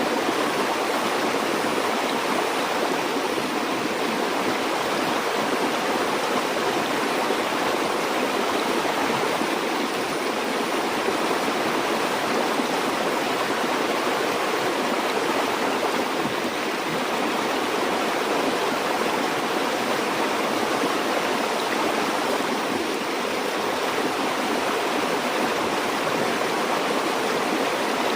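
Steady rush and burble of a flowing stream, even and unbroken.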